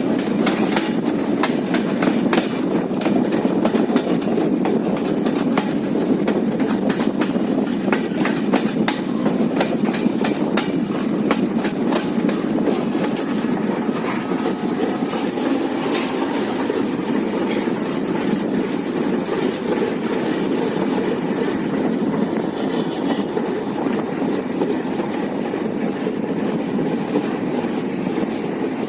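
Nilsagar Express passenger train running along the track with a steady rumble, its wheels clattering over rail joints. The clicks come thick and fast through the first half and thin out later on.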